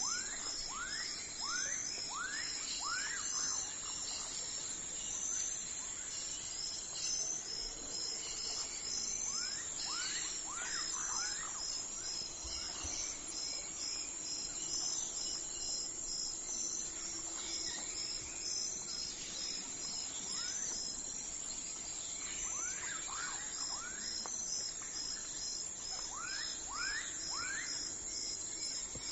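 Early-morning outdoor ambience: a steady high insect drone with rhythmic cricket chirping, and birds calling at intervals in runs of quick sweeping notes.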